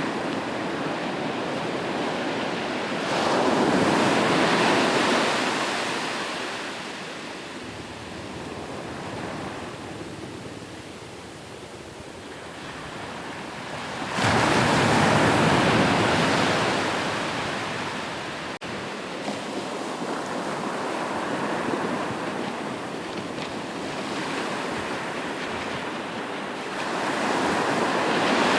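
Ocean waves breaking on a shore: a steady wash of surf, with three louder waves surging in, at about three and a half seconds, about fourteen seconds, and near the end, each fading back into the hiss of the retreating water.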